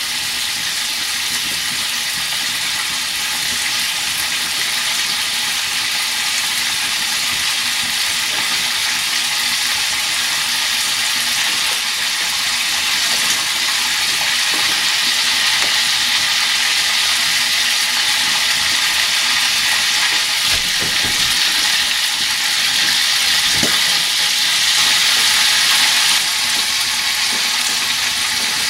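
Venison heart frying in a pan over a hearth fire: a steady sizzle that grows a little louder near the end.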